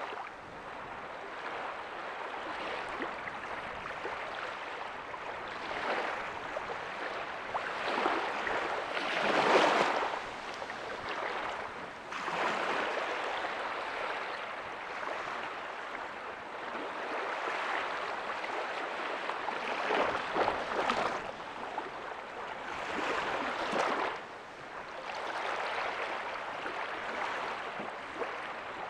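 Ocean waves breaking softly on a beach: a continuous wash of surf that swells every few seconds as each wave comes in, the biggest about ten seconds in.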